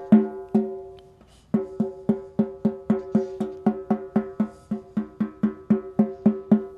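Ludwig Acrolite aluminium-shell snare drum being struck to check its tuning: three hits, a pause of about a second, then even strokes about four a second. Each stroke rings with a clear pitch.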